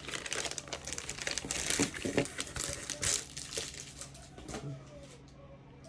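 Packaging and tape crinkling and crackling as it is pulled apart by hand, a dense run of small crackles that dies down near the end.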